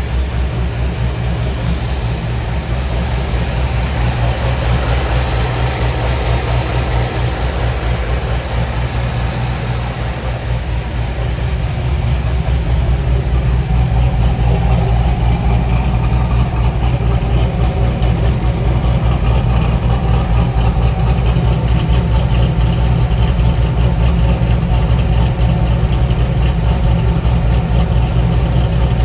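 2004 Corvette Z06 Commemorative Edition's LS6 V8 idling steadily while still cold from a cold start. It becomes a little louder from about twelve seconds in, then holds steady, with no revving.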